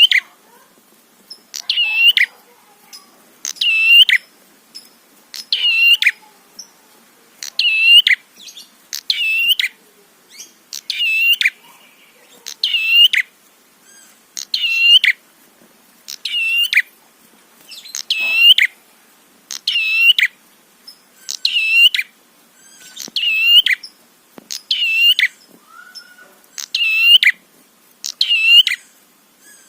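Prenjak (prinia) calling over and over: a sharp, dipping chirp-call repeated about every second and a half to two seconds.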